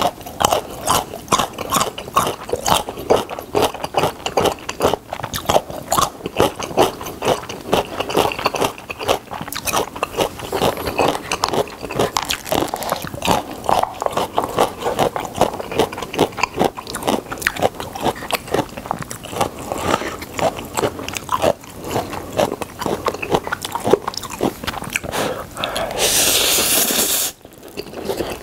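Close-miked wet chewing and crunching, first on pickled yellow radish and then on spicy Buldak stir-fried noodles, as a dense run of mouth clicks. Near the end comes a loud slurp of noodles lasting about a second.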